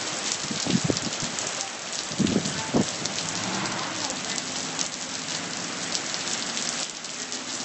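Heavy rain falling in a storm: a dense, steady patter of drops hitting surfaces. It is broken by a couple of brief louder, lower sounds about one second and two and a half seconds in.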